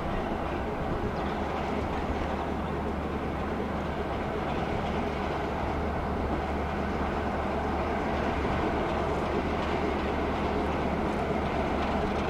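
Class 33 diesel locomotive's Sulzer eight-cylinder engine running steadily with a deep, even drone.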